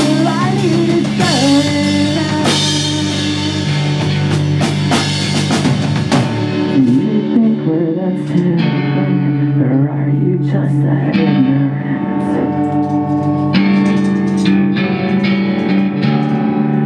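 Pop punk band playing live rock music: electric guitars, bass and drum kit. The cymbal-heavy top end drops away about six seconds in, leaving a sparser guitar-led part.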